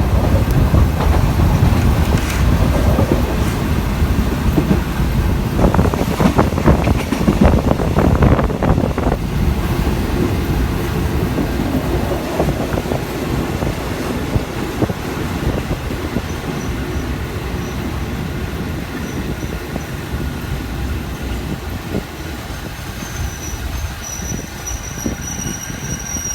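Passenger train carriage rumbling along the rails, heard from on board, growing gradually quieter as the train slows. A thin, high wheel squeal sets in near the end.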